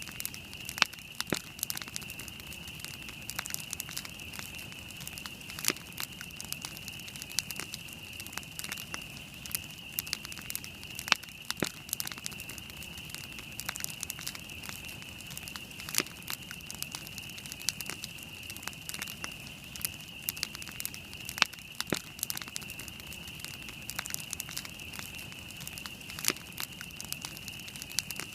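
Wood campfire burning with irregular crackling and sharp pops, a few standing out louder, over a steady high-pitched hiss.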